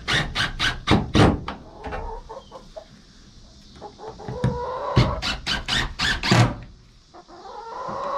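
Chickens clucking and squawking, with a quick run of sharp taps in the first second or so and another around five to six seconds in.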